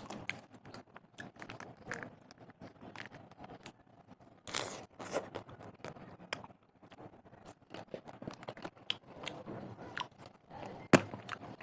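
Close-up chewing of crunchy food in a mukbang: many short, irregular crunches and crackles, with a brief noisier crunch about four and a half seconds in and one loud sharp snap near the end.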